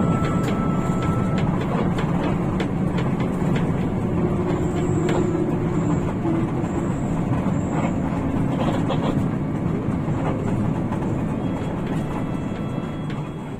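Inside a Hino RK8 rear-engined diesel bus on the move: steady engine and road noise, with scattered rattles and clicks from the bus body.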